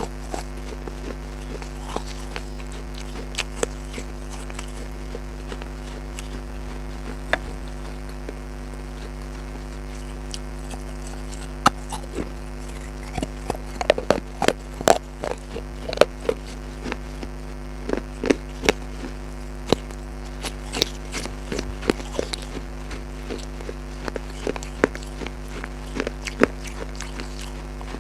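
Chewing: irregular crisp crunches and snaps of green leafy food being bitten and chewed, coming thickest in the middle, over a steady low hum.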